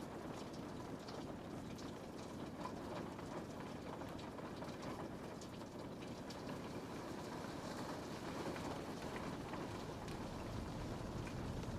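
Steady rain pattering on a window pane, a soft even wash with scattered light drop ticks.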